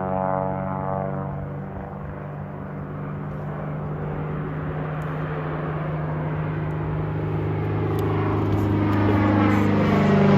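Small propeller airplane flying overhead, its engine and propeller giving a steady tone. It gets a little quieter about two seconds in, then grows steadily louder as the plane comes back toward the listener.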